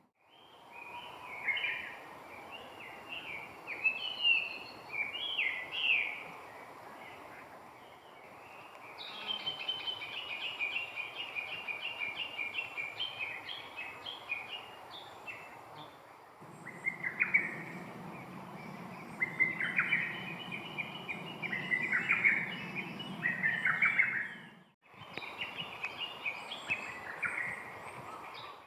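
Songbirds singing in short repeated phrases of chirps and whistles, in several separate takes joined by abrupt cuts; in one take the notes come in a fast even run, and in another a low steady background rumble runs under the song.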